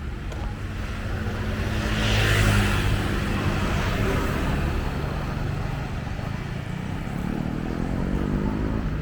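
Street traffic: a motor vehicle's engine passes close, loudest about two and a half seconds in, and another engine rises in pitch near the end, over a steady hum of traffic.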